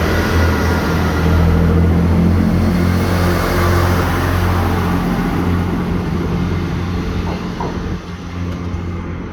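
Class 158 diesel multiple unit's underfloor diesel engines running under power as the two-car train pulls out of the station. The steady low engine note is loudest in the first few seconds, then fades as it draws away, dropping noticeably near the end.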